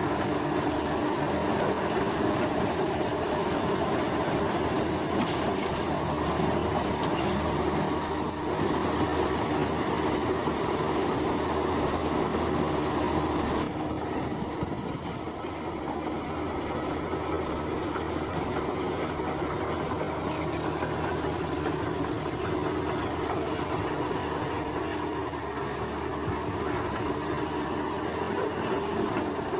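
Bulldozer's diesel engine running steadily with its crawler tracks grinding and squealing, easing off a little about halfway through. A high, fast-pulsing chirr of insects runs over it.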